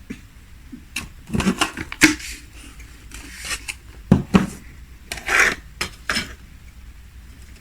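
Cutlery clinking and scraping against a plate in several short bursts, as food is cut and picked up from the plate.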